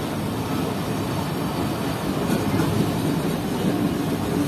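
Passenger train rolling on the rails, heard from an open coach doorway: a steady, dense rumble of wheels and running gear as it moves past coaches on the adjacent track.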